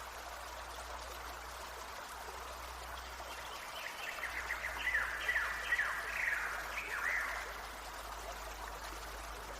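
A stream flowing steadily. In the middle comes a run of about eight short falling notes.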